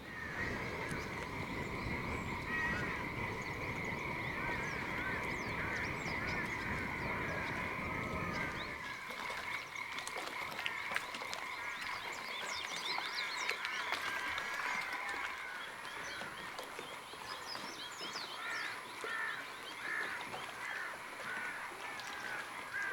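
Frogs calling in a chorus: many short chirping croaks over a steady high drone, with a low rumbling noise underneath that stops about nine seconds in.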